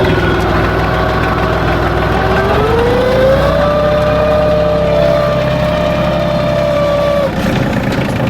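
Tractor engine running, revving up about two and a half seconds in, holding the higher speed for several seconds, then dropping back near the end.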